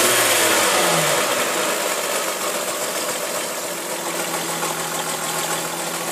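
Volkswagen VR6 narrow-angle V6 engine running; its revs drop back in the first second or so, then it idles steadily. It makes an abnormal noise that the owner suspects comes from the hydraulic lifters, a tired timing-chain tensioner or worn chain guides.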